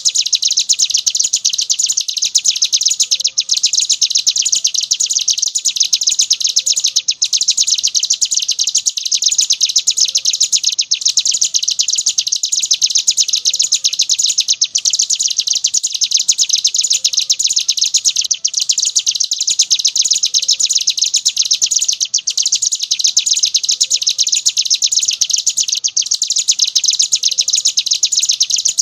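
Ciblek gunung songbird singing 'ngebren': an unbroken stream of rapid, high-pitched chirps, with a brief pause roughly every four seconds.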